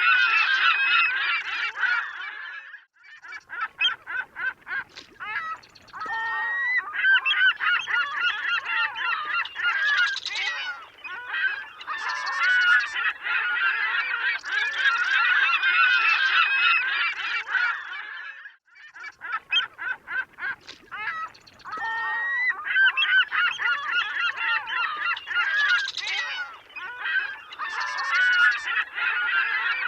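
A flock of gulls calling in a dense, overlapping chorus of squawks and cries. Twice, about 3 s and 19 s in, it thins to scattered short calls, then builds back up.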